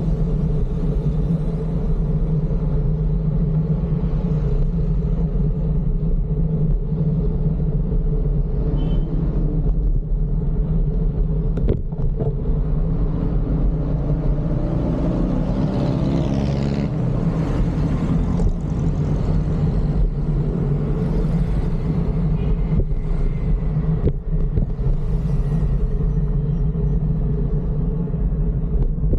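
Steady rumble of motor-vehicle road traffic, with a vehicle passing about halfway through.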